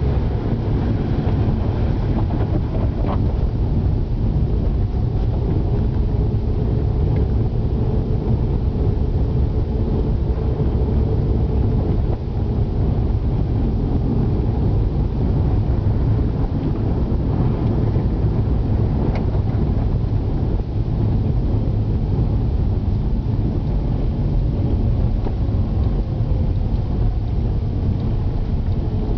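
A car driving, heard from inside the cabin: a steady low rumble of engine and tyres on the road, with a faint hum that drifts slowly in pitch.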